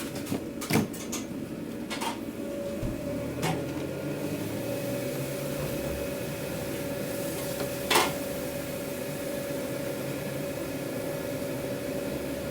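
Steady hum of food-truck kitchen equipment with a constant tone. A few sharp clacks of utensils or containers come near the start, around two and three and a half seconds in, and a louder one about eight seconds in.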